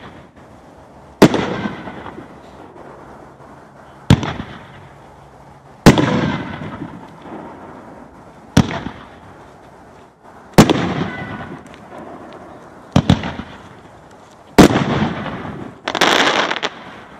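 A TB215 Khaotic Kaboom 9-shot consumer fireworks cake firing its shots one at a time. There is a loud, sharp bang every two seconds or so, each trailing off into a fading rumble, with two bangs close together about thirteen seconds in.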